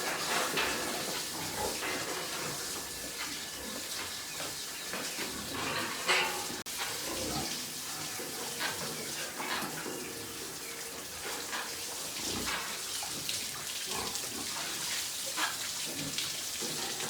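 Pigs in a farm pen, against a steady wet, splashy noise, with scattered clicks and knocks throughout.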